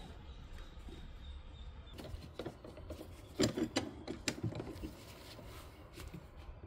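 A run of irregular metallic clicks and clinks from tools at work on a VW Gol's rear suspension, starting about two seconds in and loudest around the middle.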